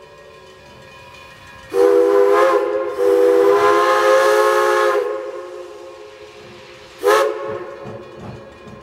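Steam locomotive No. 98's chime whistle blowing three blasts, each a chord of several steady tones: one of about a second near two seconds in, a longer two-second blast straight after with steam hiss over it, and a short toot about seven seconds in.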